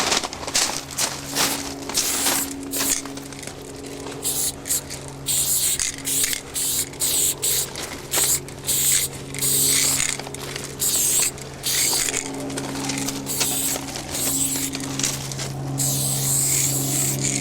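Aerosol spray paint cans hissing in repeated bursts, some short and some held a second or more, with brief gaps between. A steady low hum runs underneath.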